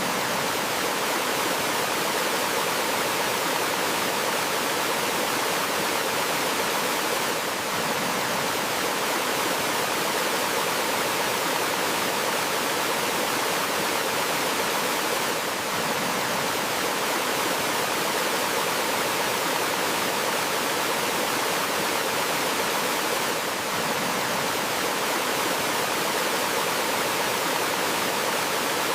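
Steady rush of flowing water from a small forest waterfall, an even hiss-like noise that keeps a constant level throughout.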